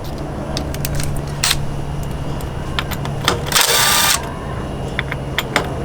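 Cordless power driver spinning briefly for just over half a second, with a steady motor whine, as it backs out a T25 Torx bolt; scattered light clicks of tool and metal parts being handled around it.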